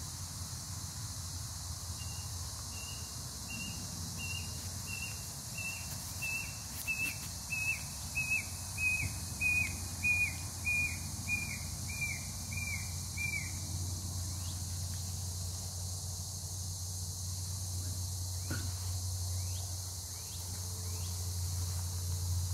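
A bird calling a series of about seventeen short whistled notes, about one and a half a second, each ending in a quick downward slur and the series drifting slightly lower in pitch; it starts about two seconds in and stops a little past halfway. A steady low hum runs underneath and gets louder in the second half.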